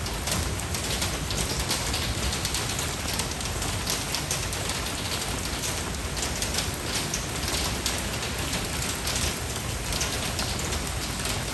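Steady rain falling on a hard surface, a dense patter of many drops that holds an even level throughout.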